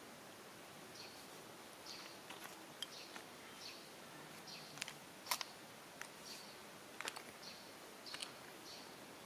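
Faint outdoor ambience with a small bird giving short high chirps, repeated about every half second to second, and a few sharp clicks, the loudest about five seconds in.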